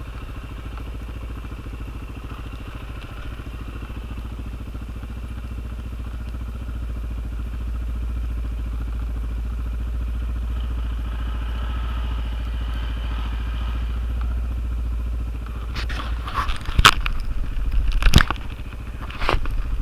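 ATV engine running steadily at low revs, a little louder for a few seconds in the middle. In the last few seconds there are several loud sharp knocks and crackles.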